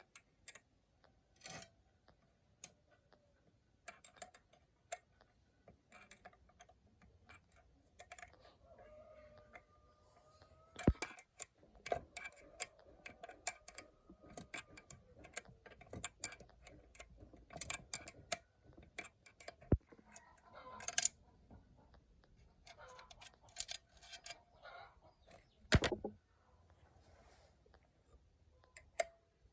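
Hand tools and small metal engine parts clicking, clinking and tapping irregularly, with a few sharper knocks and a faint scraping squeak in the middle.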